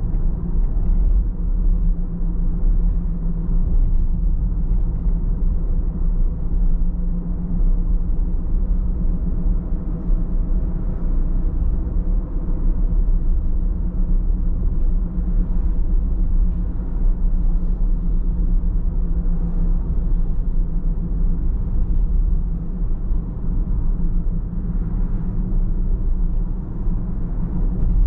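Car driving at a steady pace: a continuous low rumble of engine and road noise, with no sudden events.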